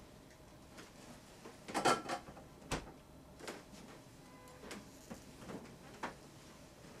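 Scattered small knocks and clicks over faint room tone: a cluster of knocks about two seconds in, a sharp click shortly after, then a few softer ticks.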